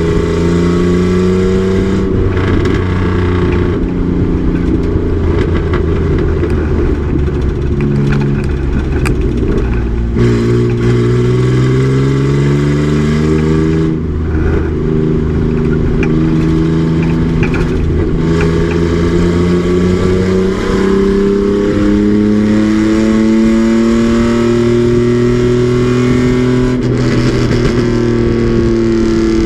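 Race truck's engine under way on a racetrack, pulling through the gears: its note climbs steadily, then drops at each shift or lift several times.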